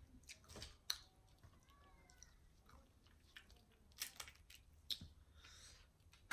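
Quiet chewing, with a few sharp mouth clicks and smacks about one, four and five seconds in.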